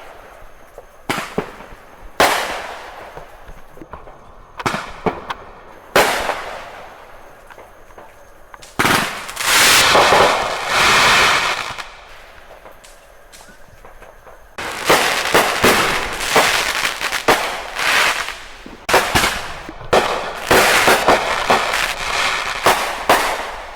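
Consumer fireworks going off: a few separate sharp bangs, then a loud crackling spray lasting about three seconds. Through the second half come dense strings of rapid crackling pops like firecracker strings.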